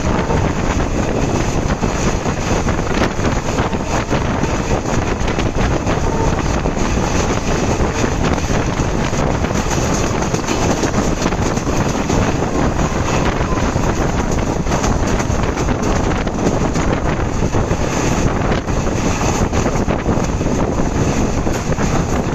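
Moving train's steady rushing noise, with wind buffeting the microphone.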